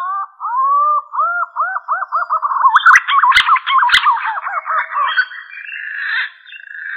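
Green pigeon (punai) calling: a string of whistled, arching notes that come faster and climb in pitch, then turn to a rougher, higher warble. Two sharp clicks fall in the middle.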